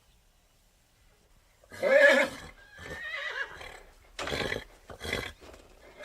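Horse whinnying loudly about two seconds in, its call trailing off over the next second and a half, then a few shorter, breathier calls spaced about half a second apart.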